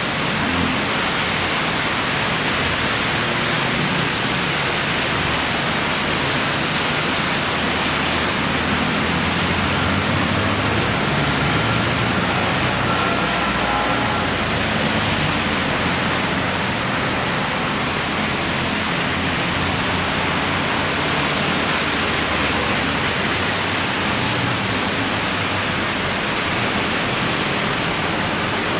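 Heavy rain pouring steadily, a loud even hiss, with cars driving past on the wet road.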